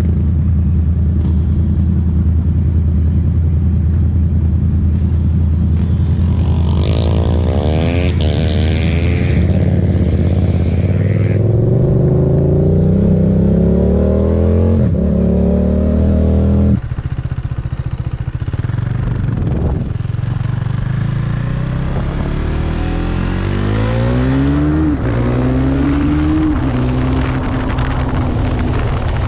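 Motorcycle engines being ridden hard: one runs steadily, then revs climb through the gears before a sudden cut about 17 seconds in. A KTM Duke 390's single-cylinder engine follows, its pitch rising again and again as it accelerates through upshifts.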